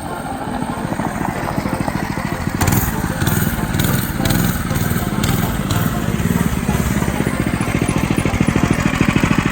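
Mega Moto 212cc mini bike's single-cylinder engine running under throttle as the bike is ridden, a fast steady firing beat that grows a little louder about three seconds in.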